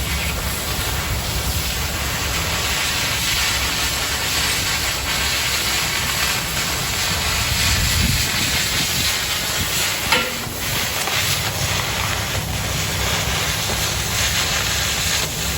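Oxy-fuel cutting torch hissing steadily as it cuts through quarter-inch steel plate. A single sharp click sounds about two-thirds of the way through, the heated metal shifting as it expands.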